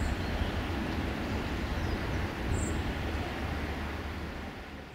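Passenger train rolling away along the track, a steady low rumble that fades away near the end.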